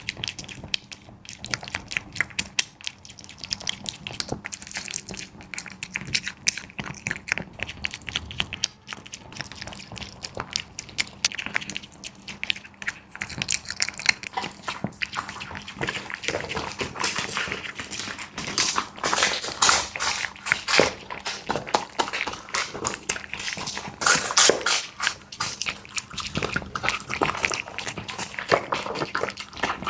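A dog eating, with quick wet chewing and crunching clicks that get busier and louder about halfway through.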